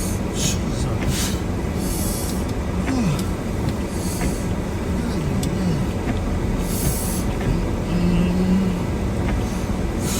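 Four-wheel-drive vehicle running, heard from inside the cab as it moves through deep snow: a steady low rumble with a few short rises and falls in pitch and a brief held tone about eight seconds in.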